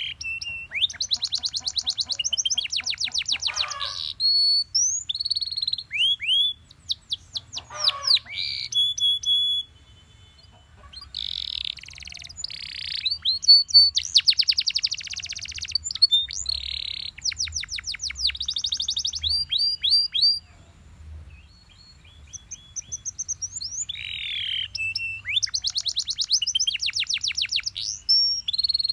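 Domestic canary singing: long phrases of fast trills, each built from quickly repeated sweeping notes, mixed with short clear whistles, broken by two short pauses.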